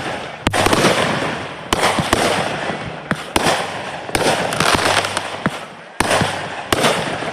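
Fireworks going off in quick succession: about nine sharp bangs, roughly one every half second to a second, each trailing off in a noisy crackle.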